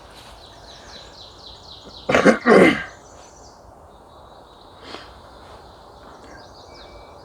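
A person makes a loud two-part cough-like sound about two seconds in, over a songbird singing a fast series of high, falling notes.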